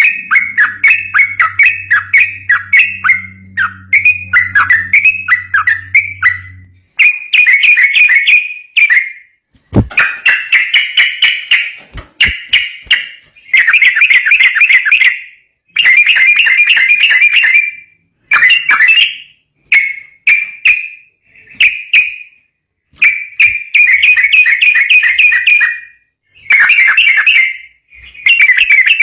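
Yellow-vented bulbul (trucukan) singing in fast, rattling runs of notes. For the first several seconds the run is almost unbroken. After that it breaks into loud phrases a second or two long with short pauses between them.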